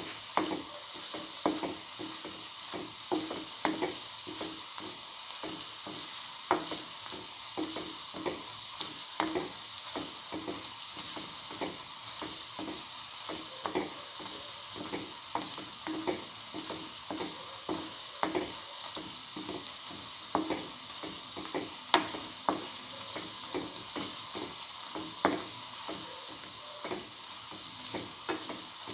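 Potato-chickpea fritters sizzling in hot oil in a pan, with frequent irregular taps and scrapes of a metal slotted spatula against the pan as the fritters are moved and turned.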